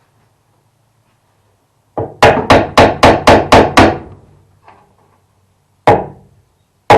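Hammer blows driving a glued wooden piece into place: a quick run of about eight strikes at about four a second, then two more single strikes near the end.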